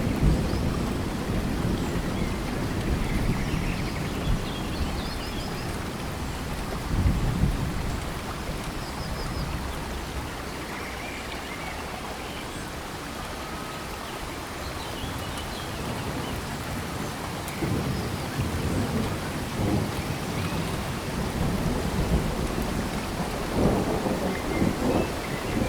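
Steady rain in tropical forest, with low rumbles of thunder swelling about seven seconds in and again through the last third. Faint short chirps sound now and then above the rain.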